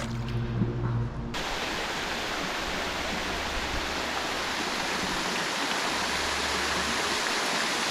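River water rushing steadily as an even hiss, likely a riffle or rapid. It starts abruptly about a second in, replacing a low steady hum.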